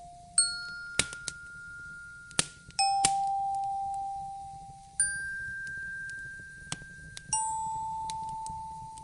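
Slow, sparse bell-like chime notes: four single tones, each ringing out and fading, alternating higher and lower about every two seconds. Behind them a fireplace crackles with scattered sharp pops.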